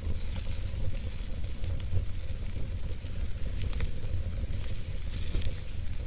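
Fireplace fire burning: a steady low rumble and hiss, with scattered small crackles and pops.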